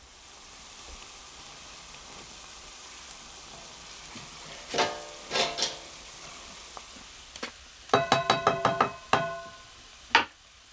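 Steady sizzling hiss of food frying in a pan. A metal utensil strikes the pan twice about halfway through, then a quick run of ringing clinks near the end as it is stirred.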